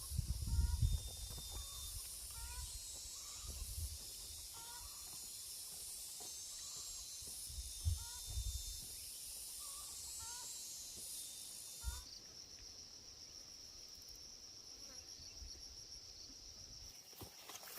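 Insects buzzing in a dense high hiss, with a bird's short rising chirps every second or two. About twelve seconds in the sound changes abruptly to a steady high insect whine, with a few low bumps along the way.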